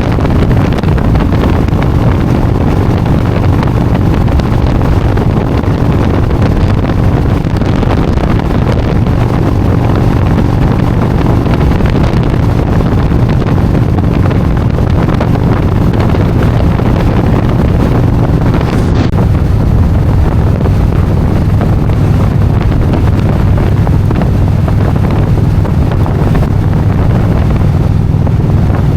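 Motorcycle running steadily at road speed, its engine a steady low drone under heavy wind noise buffeting the microphone.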